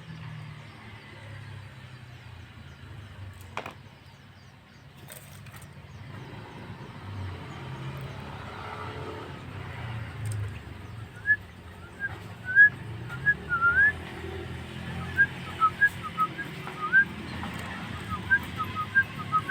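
Javan myna (jalak kebo) singing: a quick series of short, loud, upward-sweeping whistles that begins about halfway through, over a low steady background rumble.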